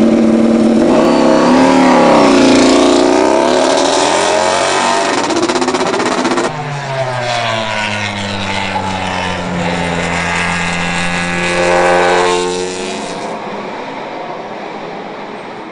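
MotoGP racing motorcycle engine at high revs on track. Its pitch dips and climbs again, drops suddenly about six seconds in, then rises steadily before fading away.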